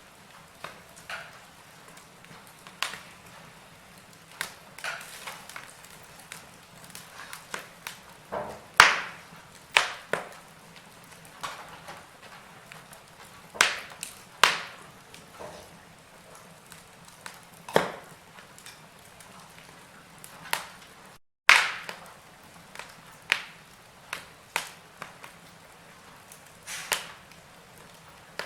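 Wood fire burning in a fireplace, crackling with irregular sharp pops of varying loudness over a faint steady hiss. The sound cuts out completely for a split second about two-thirds of the way through.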